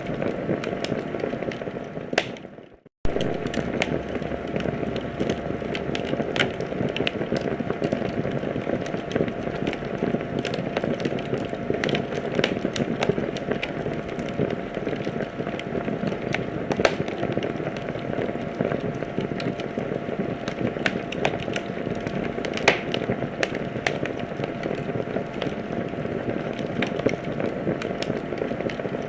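Wood fire in a fireplace crackling: a steady hiss with frequent sharp pops and snaps. About two and a half seconds in, the sound fades out for a moment and then cuts back in.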